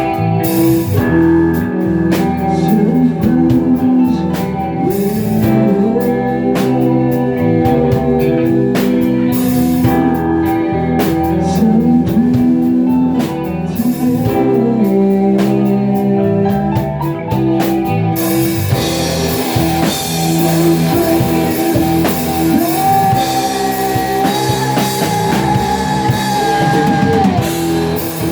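Rock band playing: guitar with sliding, bending sustained notes over bass and drums. About eighteen seconds in, cymbals wash in and the sound fills out.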